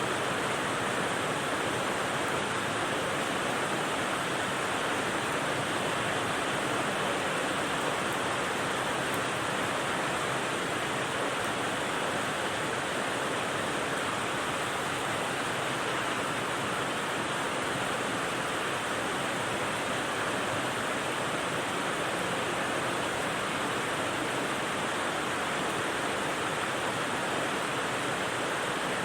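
Steady rain sound, an even hiss like white noise with no separate drops or changes standing out.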